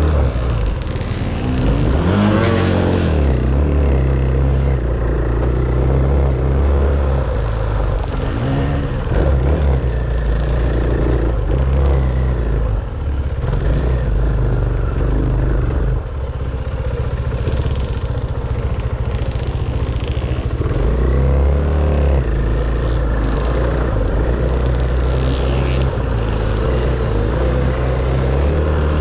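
Dirt bike engine running as it is ridden off-road, its pitch rising and falling with the throttle, with some clatter over the trail.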